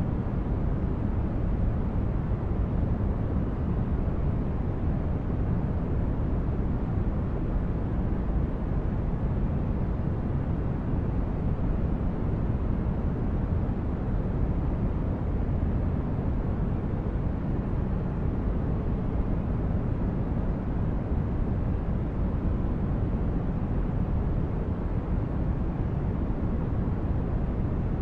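Steady white-noise sleep track: a constant, unbroken deep rushing hiss, heavy in the low end and soft in the highs.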